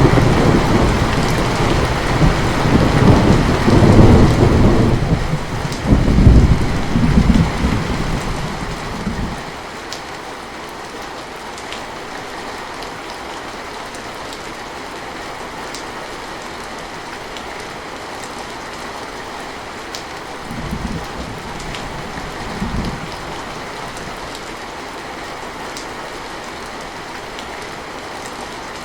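Heavy rain falling steadily, with a low rolling thunder rumble that swells twice in the first several seconds and dies away about nine seconds in. Two short, fainter rumbles come about two-thirds of the way through.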